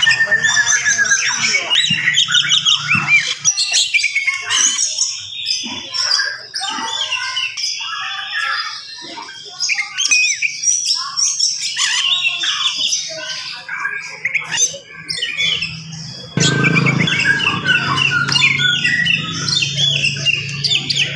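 Oriental magpie-robin (kacer) in full song: a fast, dense, unbroken run of varied whistles, chirps and harsh squawky notes. A low steady hum runs underneath and grows louder about three-quarters of the way in.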